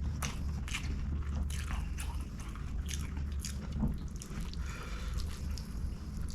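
Close-miked chewing of string hoppers with curry and coconut sambol: irregular wet mouth smacks and clicks in quick succession.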